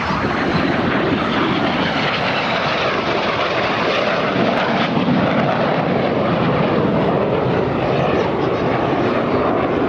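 BAE Hawk T1 jets of the Red Arrows flying a display: a continuous jet engine rush that slowly swells and eases as the formation moves overhead.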